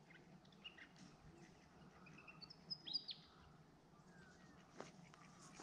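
Faint chirps from small birds: a few short, high calls, the clearest cluster about halfway through, over near-still lakeside quiet. A single soft click near the end.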